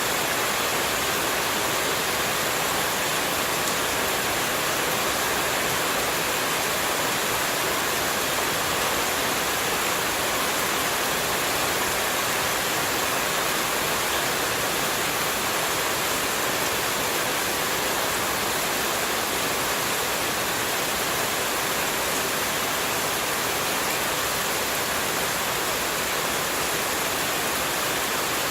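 Running water rushing steadily: an even, unchanging hiss with no breaks or single splashes.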